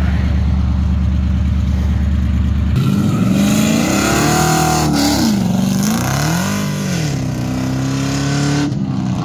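Cammed V8 of a Pontiac GTO with a Texas Speed cam, running with a deep, steady rumble. The sound changes abruptly about three seconds in, and the car then accelerates hard: the engine note climbs and drops twice through gear changes, then holds steady near the end.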